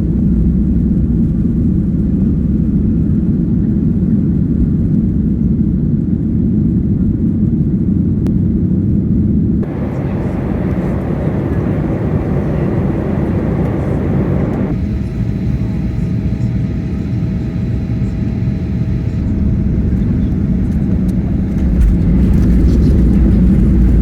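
Loud, steady low rumble of vehicle or aircraft noise. The sound shifts abruptly about ten and fifteen seconds in, and the deepest part grows heavier near the end.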